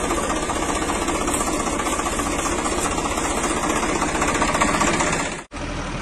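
Vehicle engine running steadily with a fast, even knocking beat. It breaks off about five and a half seconds in and picks up again slightly quieter.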